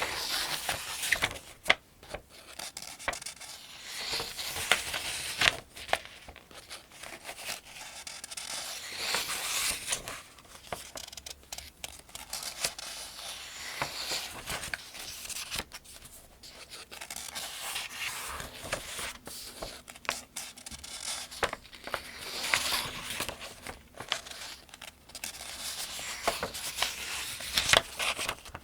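Pages of a paperback Farmers' Almanac turned one after another at a steady pace, each turn a papery swish with crisp crackles, recurring every few seconds.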